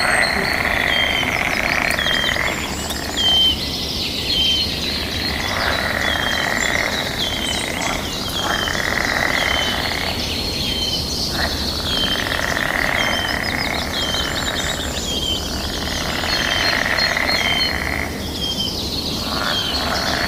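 A chorus of frogs calling over one another, mixed with bird calls and a steady high insect drone. A short chirp repeats about once a second throughout.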